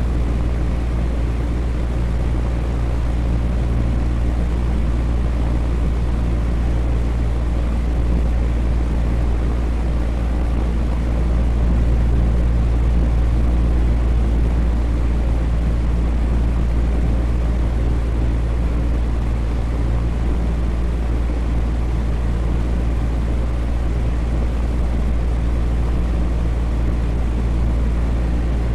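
Electric fan running steadily: a constant whoosh of moving air over a low motor hum, with no change in speed.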